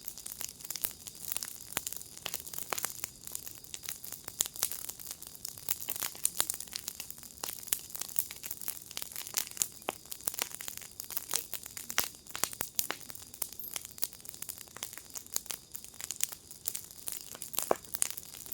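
Wood fire in a fire pit crackling and popping: many irregular sharp snaps over a steady hiss.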